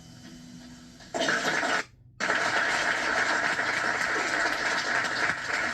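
The last acoustic guitar chord fades out, then audience applause starts about a second in. It breaks off briefly near two seconds and comes back, continuing steadily.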